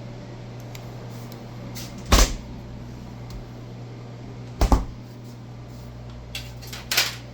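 Two sharp thuds about two and a half seconds apart, with a lighter one near the end, like a commercial freezer cabinet's door being opened and shut. A steady low hum continues throughout.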